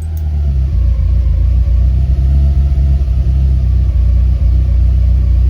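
Lancia Delta Integrale Evo 1's 16-valve turbocharged four-cylinder engine running as a steady low rumble, getting louder under a second in and then holding.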